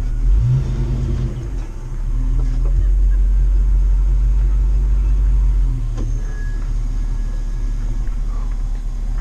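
Class A motorhome's engine and drivetrain rumbling at low speed, heard from the cab. The rumble eases briefly about a second and a half in. A few light knocks and a thin squeak come near the end.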